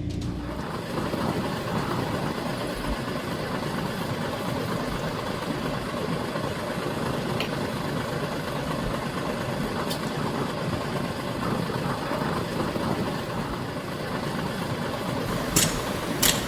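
Heavy earthmoving machinery's diesel engine running steadily, with two sharp clicks near the end.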